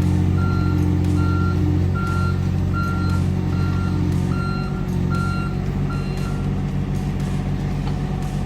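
Digging machine's backup alarm beeping about nine times, evenly spaced, over its engine running steadily; the beeping stops about six seconds in while the engine keeps running.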